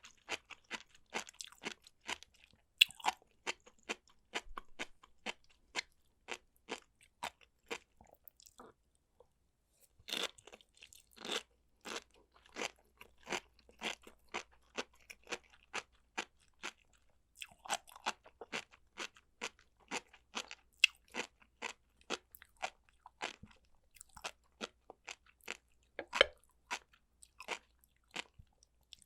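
Close-miked chewing of food: crisp, wet clicking and crunching mouth sounds, about two to three a second, with a short break about a third of the way through.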